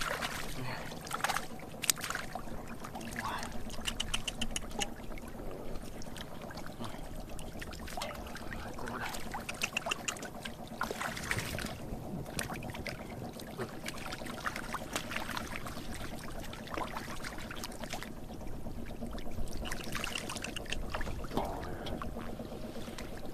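Water being splashed and sloshed, with many irregular small splashes and knocks over a steady low hum.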